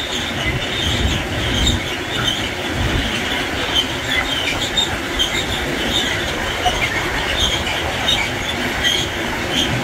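Freight train of high-sided open wagons rolling past: a steady rumble and clatter of wheels on rail, broken by short high-pitched wheel squeals every second or so. Wind buffets the microphone in the first few seconds.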